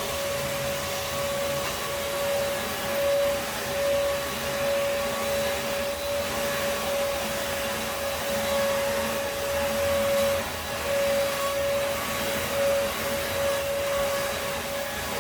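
Vacuum cleaner running steadily, a continuous motor whine with airflow rush, its pitch and loudness wavering slightly as it is pushed about.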